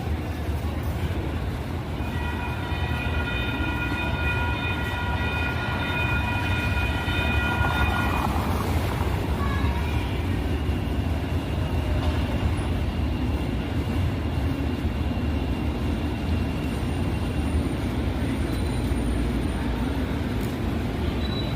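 Sacramento Regional Transit light rail train running with a steady low rumble. A horn sounds for about six seconds starting about two seconds in, and a thin high steady tone follows.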